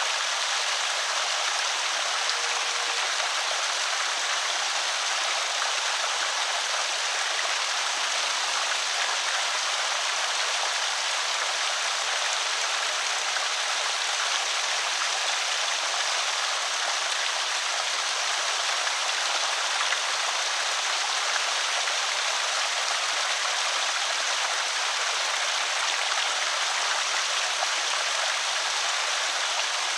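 Water pouring steadily over a small creek spillway: an even, unbroken rush and splash.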